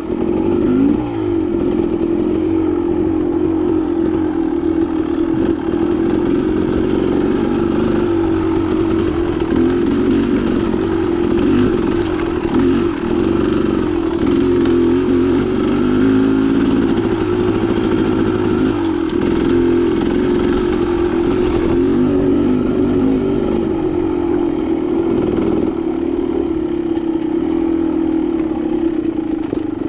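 Dirt bike engine running continuously while being ridden, its pitch rising and falling with the throttle.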